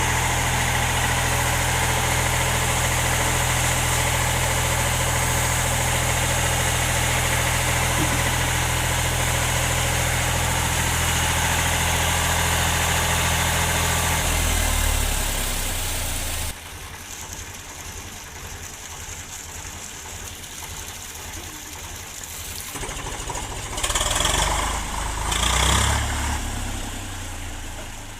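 Tractor engine idling steadily. About sixteen seconds in the sound drops sharply to a much quieter low throb, with two brief louder surges near the end.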